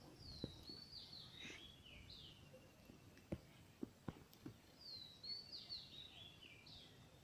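A songbird sings faintly, two short phrases of clear swooping whistled notes about four seconds apart, with a few faint taps in between.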